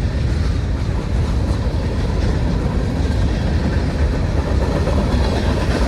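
Cars of a long mixed freight train rolling past, a steady rumble of steel wheels on the rails.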